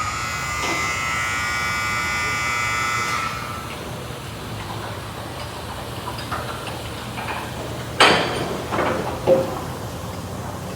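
Sonny's car wash tunnel machinery: a steady high-pitched whine for about three seconds that cuts off, over a low hum. About eight seconds in come three sudden loud bangs or whooshes in quick succession.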